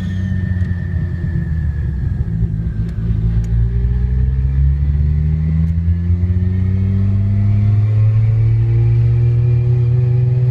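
Modified Nissan Skyline R34 GT-R's twin-turbo straight-six running under steady acceleration, its pitch rising slowly and evenly with no gear change.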